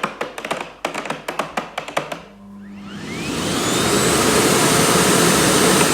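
Miele Blizzard CX1 bagless vacuum cleaner finishing its self-cleaning filter cycle with about two seconds of rapid clicking and rattling. After a short pause with a low hum, the motor starts up again on its own, with a rising whine, and runs loud and steady.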